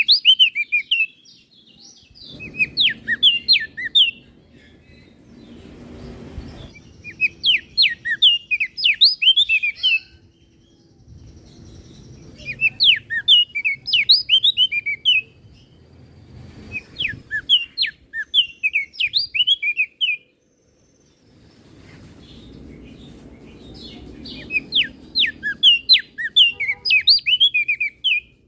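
Crested white-eye (opior jambul) singing: repeated phrases of rapid, high chirping notes, each lasting a second or two, separated by short pauses.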